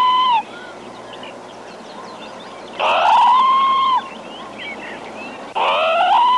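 An animal call repeated three times, each about a second long, rising in pitch and then held before breaking off. Faint small chirps sound between the calls.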